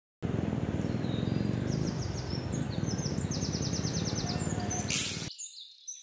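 Birds singing in quick, high repeated trills over a steady rushing background noise. The sound cuts off abruptly about five seconds in.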